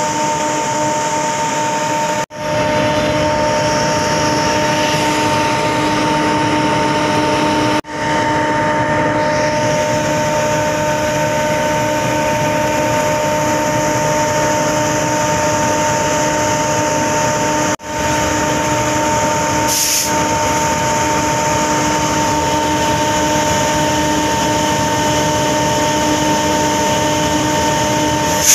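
A moving train heard from the locomotive: a steady engine drone with a constant hum, mixed with rushing wind and rolling noise. The sound cuts out briefly three times and fades back in each time, and a short hiss comes about two-thirds of the way in.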